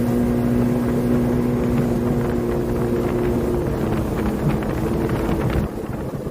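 Watercraft engine running at a steady speed, with wind rushing over the microphone. Its steady note fades a little over halfway through, and the overall sound drops a notch near the end.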